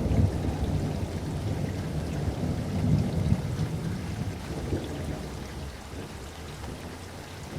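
Rain falling steadily with rolling thunder. A deep rumble runs at the start, swells again about three seconds in, then dies away near the end.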